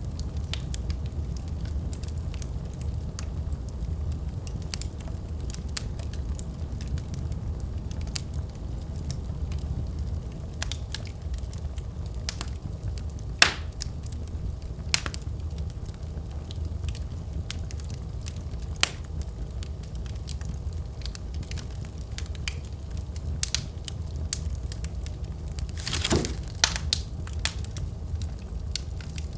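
Wood fire burning in a fireplace: a steady low rumble of the flames with scattered sharp crackles and pops, a louder pop about halfway through and a quick cluster of pops near the end.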